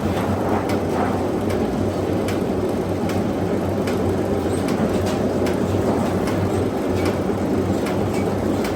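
Metalworking machinery running with a steady low hum, with irregular sharp metallic clicks and knocks scattered through it.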